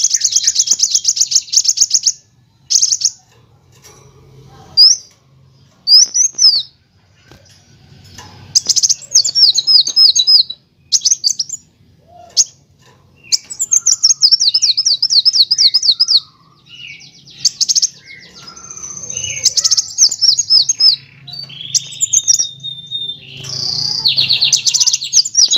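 Kolibri wulung, a sunbird, singing: bursts of fast, high trills and rapid runs of repeated falling notes, broken by short pauses.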